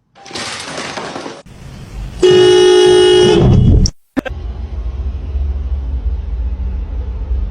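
A horn sounds one long, steady honk of about a second and a half, the loudest sound here. After an abrupt cut, a steady low rumble follows.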